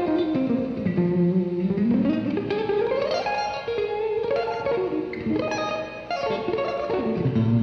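Electric guitar played through a Donner Verb Square reverb pedal set to its spring reverb mode. It plays single-note runs that climb and fall, with the notes ringing on into each other.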